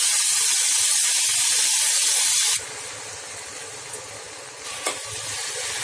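Freshly washed, still-wet drumstick flowers sizzling as they hit hot mustard oil in a steel kadai of frying potato and brinjal. A loud, dense hiss drops abruptly to a softer sizzle about two and a half seconds in, with a brief click near the end.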